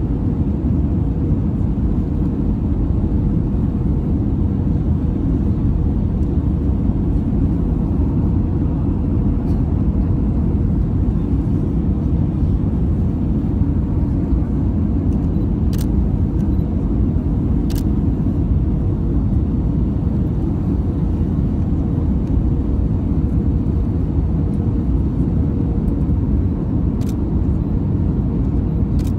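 Airbus A320 jet cabin noise: a steady rush of airflow and engine rumble with a constant mid-pitched hum running through it. A few faint clicks are heard.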